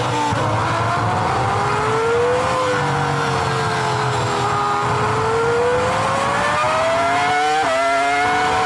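Formula 1 V10 engine heard from onboard the car at speed, its pitch rising and falling as it accelerates and lifts through corners, with a gear change about three-quarters of a second before the end.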